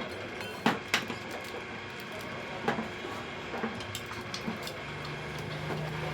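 Several short metallic clinks and knocks, about five, the two loudest close together about a second in, from tools or small metal engine parts being handled. A faint low hum comes in near the end.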